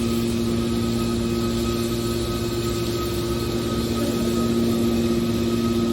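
Horizontal hydraulic scrap metal baler's power unit running, a steady hum with a few held tones.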